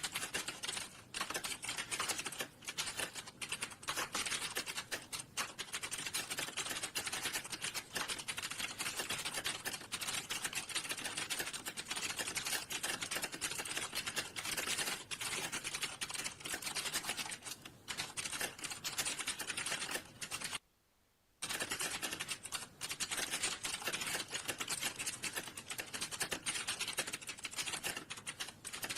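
Fast, continuous typing on a computer keyboard, a dense stream of key clicks, broken once by a stop of under a second about two-thirds of the way through.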